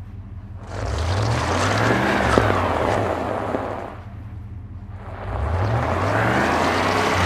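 Car stuck and spinning its drive wheels: the engine revs up twice, each time with a rush of tyre-slip noise, dropping back toward idle in between.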